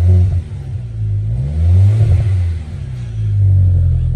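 Audi B7 engine revved through a freshly installed custom exhaust with new mufflers, three blips in a row with the pitch rising and falling each time, giving a deep, aggressive tone.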